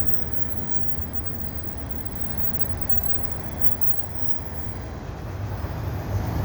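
Freight train of empty auto rack cars rolling past: a steady low rumble that grows louder near the end.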